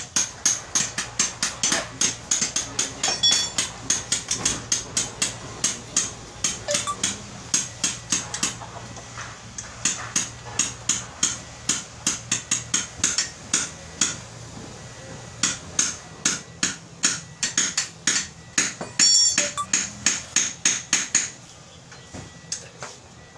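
A hammer striking metal in quick, even blows, about three to four a second, in long runs with two short breaks, stopping near the end. The blows land during work on a Toyota Vios steering rack end.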